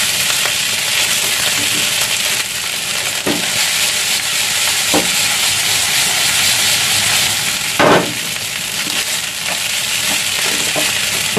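Fried rice with shredded chicken sizzling in a frying pan over a gas flame, stirred and scraped with a wooden spatula and tossed in the pan. Short knocks of the spatula and pan break the steady sizzle now and then, the loudest about 8 seconds in.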